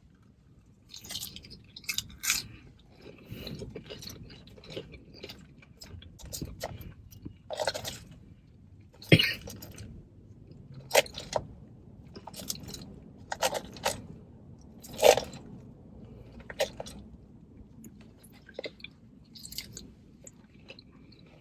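A person chewing salad close to the microphone: irregular crisp crunches and wet mouth sounds, with a few sharper, louder crunches among softer chewing.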